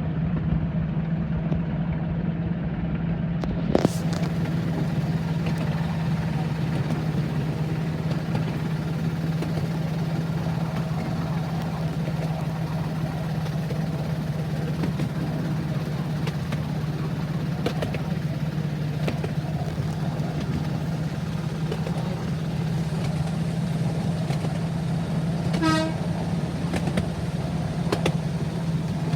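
Steady engine drone of a moving vehicle, with a sharp click about four seconds in and a short toot near the end.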